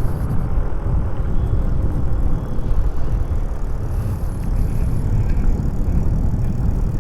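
Wind buffeting on the microphone while riding an electric bike: a loud, unsteady low rumble.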